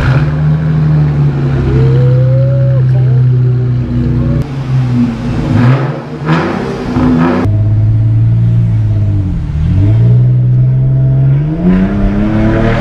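2006 Chrysler 300's 3.5-litre V6 running through a true dual exhaust with Carven R Series mufflers, an X-pipe and the resonator deleted. The exhaust holds a steady note for the first few seconds and changes pitch in the middle. It dips briefly about nine seconds in, then climbs in pitch as the car accelerates toward the end.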